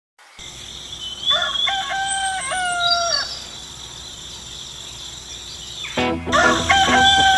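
A rooster crowing twice: one full crow about a second in and a second crow starting near the end, with a few high bird chirps between. Music comes in under the second crow.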